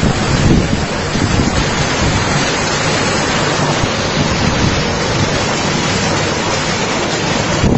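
Cyclone storm noise: a loud, steady rush of wind and water, with wind buffeting the microphone in brief low gusts about half a second in and near the end.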